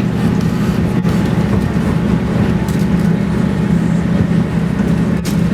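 Passenger train running along the line: a steady rumble and hum of the wheels on the rails.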